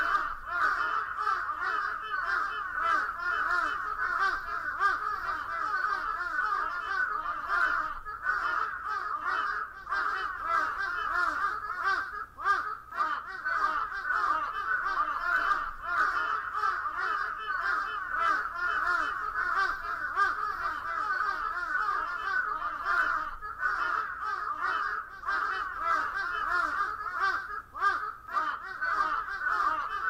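A dense chorus of crows cawing without pause, many calls overlapping.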